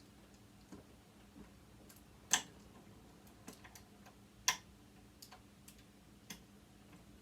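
Scattered small clicks and taps of hand tools on the metal parts of a sewing machine being taken apart, with two sharper clicks about two seconds and four and a half seconds in, over a faint steady hum.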